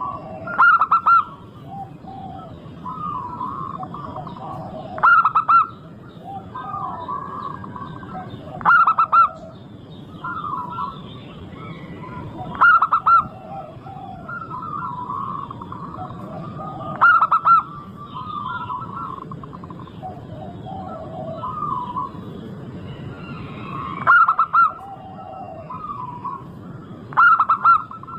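Zebra doves cooing: one loud bird repeats its short, rolling song about every four seconds, with softer coos from other doves in between, over a steady low background noise.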